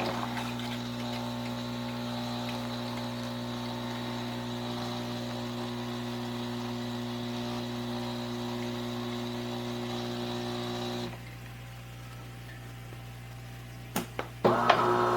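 De'Longhi Dinamica Plus espresso machine's pump running with a steady hum while it dispenses a drink, stopping suddenly about eleven seconds in. A few clicks follow, and near the end a louder hum of a different pitch starts as the machine moves on to the next stage.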